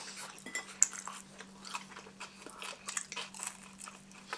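Close-up chewing of pizza: irregular small crunches and wet mouth sounds as bites of bacon pizza are chewed, over a faint steady hum.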